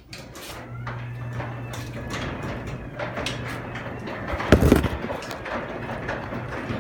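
Craftsman belt-drive garage door opener starting up and raising an old sectional garage door. The motor hums low and the door rattles and clatters along its tracks, with a loud knock about four and a half seconds in.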